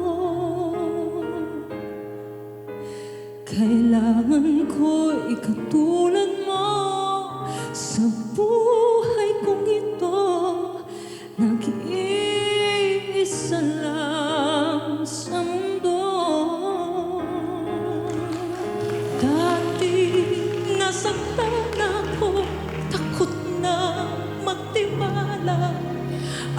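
A female vocalist sings a Tagalog OPM love ballad over a band accompaniment, with long held notes, wide vibrato and soaring high passages.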